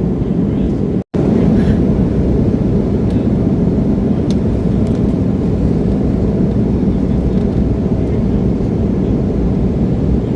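Steady cabin noise inside an Embraer E175 regional jet: a dense, low rumble of the turbofan engines and airflow. The sound drops out completely for an instant about a second in.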